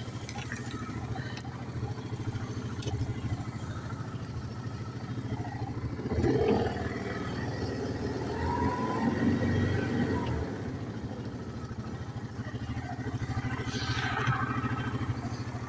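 An ATV engine running at a steady idle, with a brief swell in level about six seconds in and again a little later.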